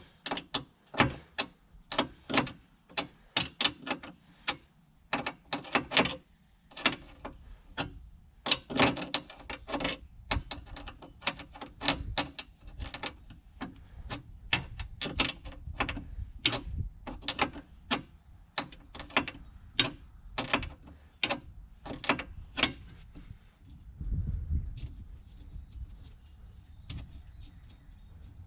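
Hand ratchet wrench clicking in repeated short strokes, about two or three a second, as a bolt on the mower is backed off; the clicking stops about three quarters of the way through. Crickets chirp steadily behind it.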